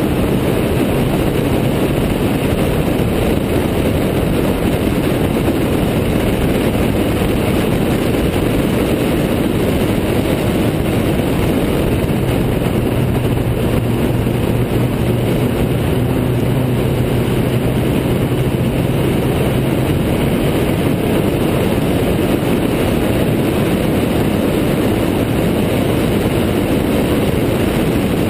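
Riley 12/4 Special's four-cylinder engine running hard at steady revs on track, a loud, even drone with a dense rushing noise under it.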